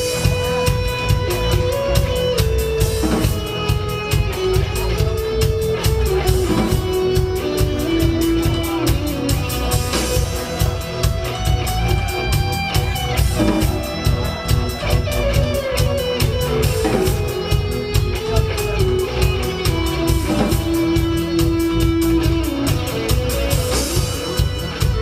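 Live band playing an instrumental passage: a guitar melody over drum kit and bass with a steady dance beat.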